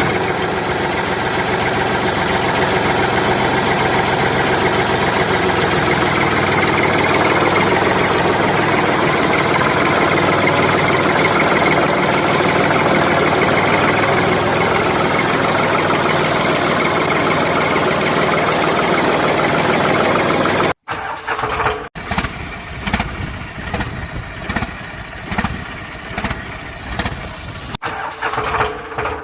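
Tractor engine running steadily for about twenty seconds, then cutting off suddenly; after that, a run of irregular clicks and knocks.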